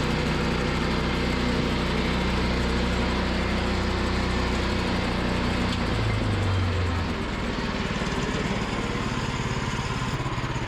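Gas engine of a Woodland Mills portable bandsaw mill running steadily; about six seconds in its pitch shifts and it settles into a lower, slightly quieter run.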